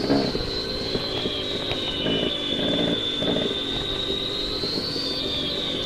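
Dirt bike engine running under riding load on a rocky trail, the revs rising and falling, with wind and trail rumble underneath. A high, slightly wavering whine runs over it throughout.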